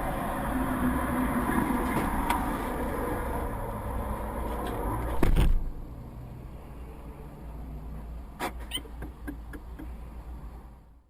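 Car driving with steady road and engine noise, then a loud, short bang about five seconds in, typical of a collision caught on a dashcam. After it the sound is quieter, with a few sharp clicks and knocks.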